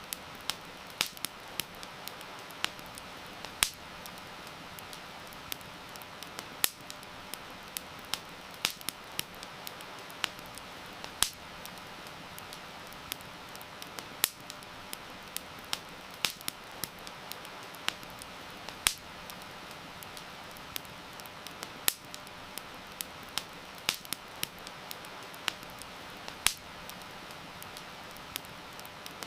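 Wood campfire crackling, with sharp irregular pops a few times a second over a steady hiss of heavy rain.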